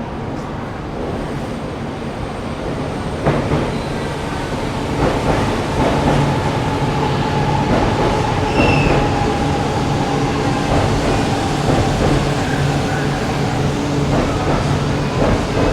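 A Shinkansen train running: a steady rumble with a held tone and scattered clicks, growing a little louder about three seconds in.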